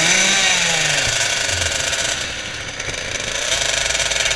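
Small two-stroke 50cc motocross bike engines, such as the KTM 50, revving, the pitch rising and falling with the throttle. About a second in the nearest engine falls back and a rougher mix of engine noise carries on.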